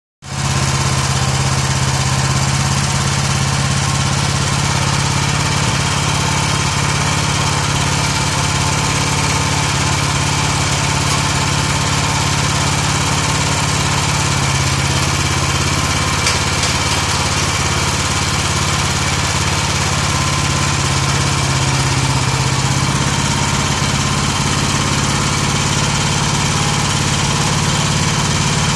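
MAGNUM BS188F single-cylinder petrol engine on an AGROS walk-behind tractor, running steadily.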